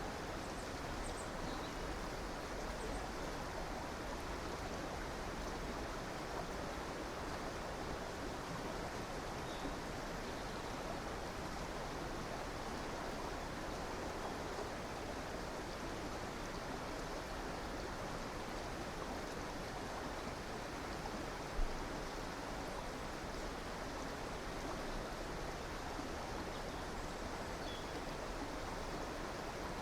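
River water running steadily, with a few faint high bird chirps scattered through. A single brief low thump stands out about two-thirds of the way in.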